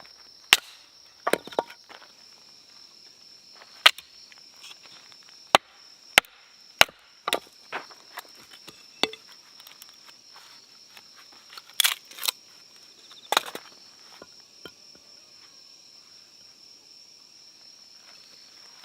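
Chopping on wood: about fifteen sharp knocks, spaced unevenly, some in quick pairs, with a long gap near the end.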